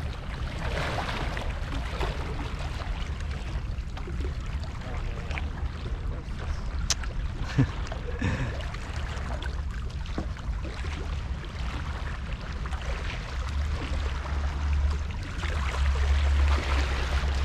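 Wind buffeting the microphone over the wash of sea water against the rocks, gusting harder near the end, with a single sharp click about seven seconds in.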